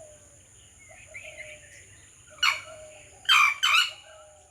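Sri Lanka junglefowl calling: three short, loud, harsh notes, the last two close together. Behind them are a steady high two-note whine and faint chirps of smaller birds.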